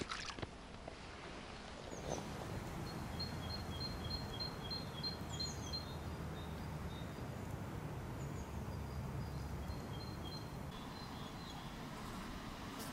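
A small songbird singing a quick, high two-note phrase, repeated about three times a second for a few seconds and again briefly later, over a faint steady low rumble.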